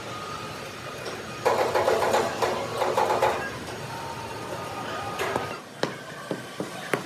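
Workshop machinery running steadily, with a louder rasping stretch of metalwork about a second and a half in, then several sharp metallic knocks near the end.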